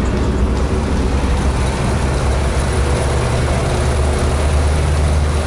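Cabin sound of a GAZ-21 Volga on the move: its four-cylinder engine running steadily at cruising speed, mixed with road noise.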